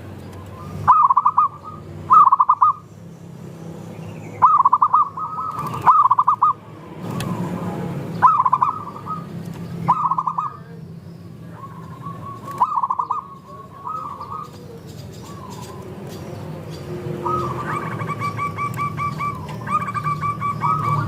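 Zebra doves (perkutut) cooing: short warbled coos every second or two from more than one bird, overlapping, with a low steady hum beneath. About three-quarters of the way through, the calls run together into a fast string of repeated notes.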